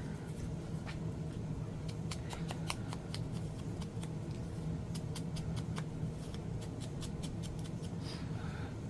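Paper and cardstock being handled at a craft desk: a scattered run of small sharp clicks and taps through the middle, over the steady low hum of an air conditioner running in the background.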